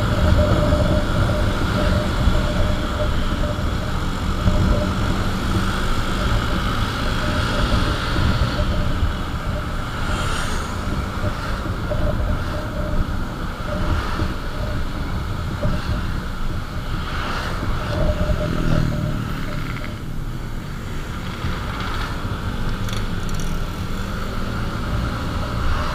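Motorcycle on the move: a steady rush of wind and road noise over the engine's running hum, with a few brief louder passing sounds.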